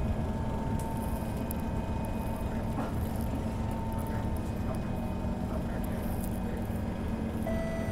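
Train running along at steady speed, heard from inside the carriage: an even low rumble with a faint steady whine over it.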